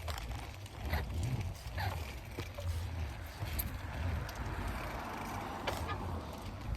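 Bicycle being ridden, with wind buffeting the microphone in low pulsing gusts, scattered rattling clicks from the bike and a rising hiss about two-thirds of the way through.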